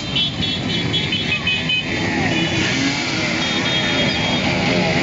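Many motorcycles in a street caravan, engines running, with repeated short high beeping tones over them and some music mixed in.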